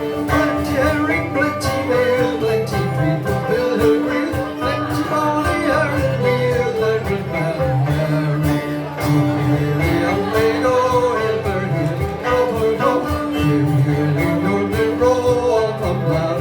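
Live folk band playing a lively Scottish song on a 12-string guitar and a banjo, with strummed chords under a melody.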